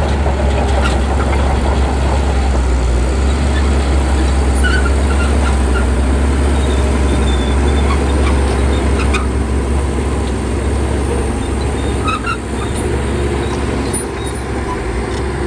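Heavy diesel engine of a crawler bulldozer running steadily at work, with a few short high squeaks now and then.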